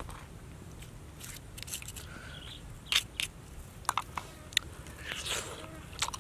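Close-up mouth sounds of a person eating grilled catfish: chewing and smacking, with several sharp clicks, the loudest about halfway through.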